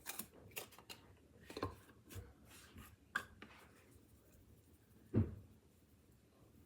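Faint hand-handling sounds of ground mustard being coated onto a brisket: scattered light taps and rustles, with one soft thump about five seconds in.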